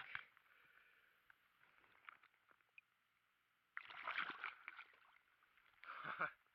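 Two short sloshes of water, the first about a second long and the second shorter near the end, against near silence.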